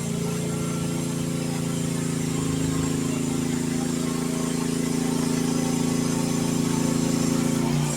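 Youtop YT15 mini excavator's engine running steadily, with a brief dip right at the end.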